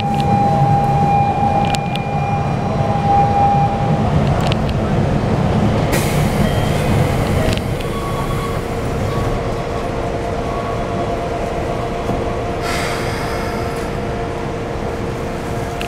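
Interior sound of a Keikyu 1500-series commuter train car: a steady low rumble and hum from the train. A few sharp clicks and two short rushes of noise come through, about a third of the way in and again near the end.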